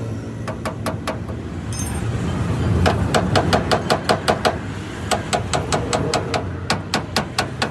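Quick runs of hammer blows on metal, about five or six a second with a ringing note, starting about three seconds in and running in two bursts. A steady low vehicle rumble lies underneath.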